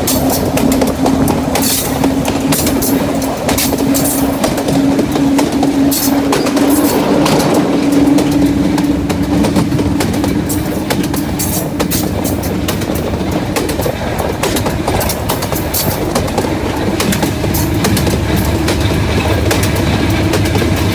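Diesel locomotive running along the line, heard from on board: a steady engine drone, with the wheels clicking irregularly over the rail joints. The engine note rises slightly near the end.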